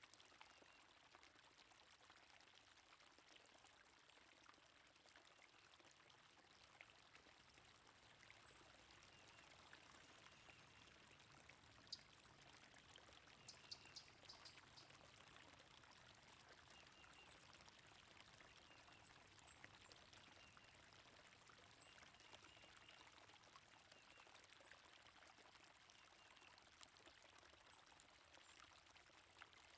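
Faint steady sound of water running in a stream, with scattered short, high bird chirps and a few sharp ticks about halfway through.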